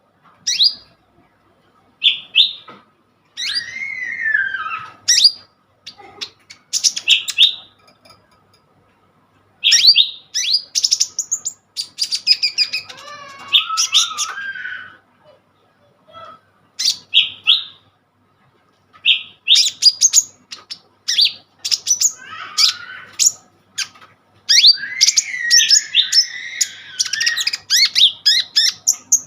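Kolibri ninja (konin) sunbird singing vigorously: phrases of rapid, sharp high chirps broken by short pauses, with warbling gliding passages in between.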